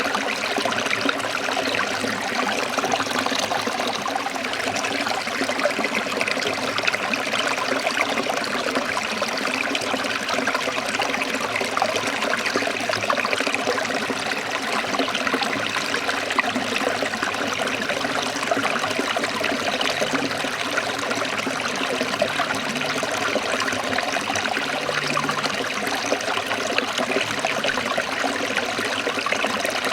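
Forest stream trickling steadily, a continuous rush of running water.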